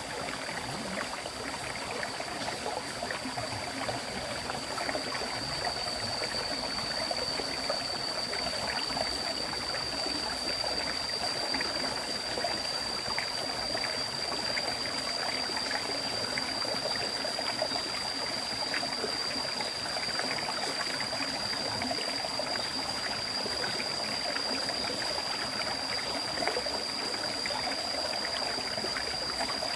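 River water flowing and babbling steadily over stones, with a thin, steady high-pitched tone running throughout.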